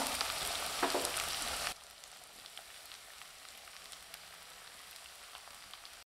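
Chopped bitter gourd frying in hot oil in a heavy iron kadai: a steady sizzle that drops suddenly to a faint crackle a little under two seconds in.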